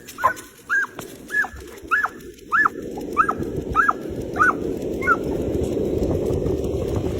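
A dog yipping excitedly, about nine short high yelps in a row at a little under two a second, stopping about five seconds in. A rushing noise like wind on the microphone builds up under the yelps from about halfway.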